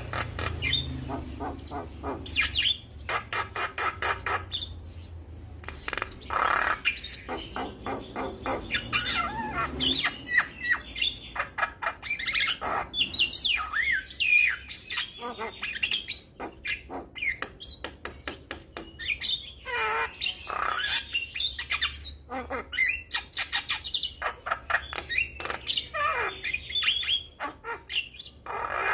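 Javan myna (jalak kebo) singing vigorously: a continuous, varied stream of rapid clicks, chattering, short whistles and squawks.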